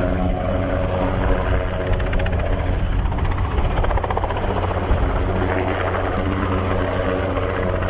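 Helicopter running steadily, its rotor beating continuously with the engine's drone under it.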